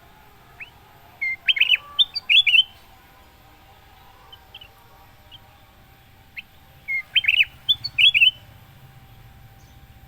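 Ruby-throated bulbul (kutilang emas) singing two short phrases of quick, clear whistled notes, a few seconds apart, over a faint steady hum.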